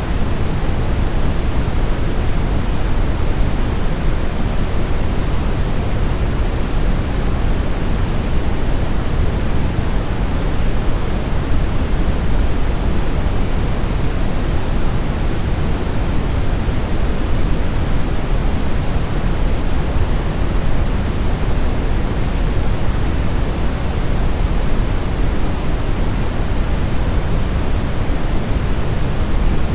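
Steady synthetic brown noise: an even, deep rushing hiss weighted toward the bass, with no changes or events.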